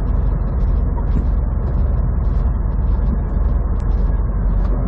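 Semi truck's diesel engine droning steadily under heavy load as it slowly climbs a steep mountain grade, heard inside the cab, with frequent light clicks and rattles over it.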